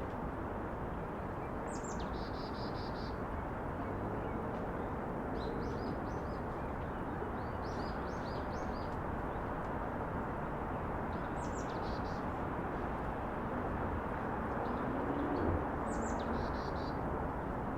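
Small birds calling in short phrases every few seconds: a sharp, high falling note followed by a quick run of repeated chirps. Underneath runs a steady low hum of distant city noise.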